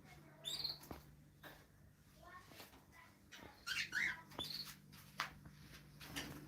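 Small birds chirping in short, high, squeaky calls, several at a time, in bunches about half a second in and again around the middle. A faint steady low hum lies underneath.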